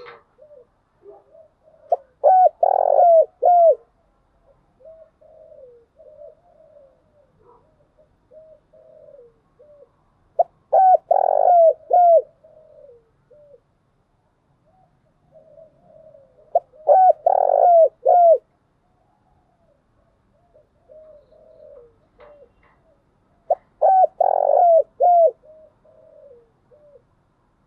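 Spotted dove calling: four loud bouts of several short coos each, about seven seconds apart, with softer coos between them. These are the bow-coo and advertising calls of a decoy bird, played to stir captive doves into calling.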